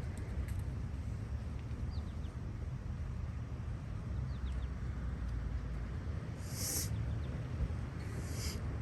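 Steady low outdoor rumble with a few faint, short bird chirps, and a brief high hiss about six and a half seconds in.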